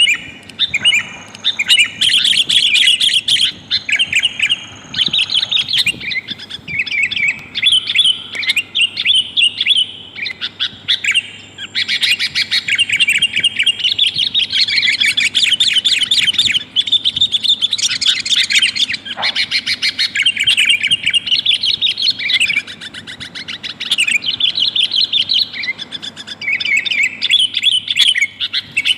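Sooty-headed bulbul (kutilang) calling: near-continuous runs of rapid, chattering chirps with only brief pauses, presented as a female calling to a male, the kind of call played to lure wild bulbuls down.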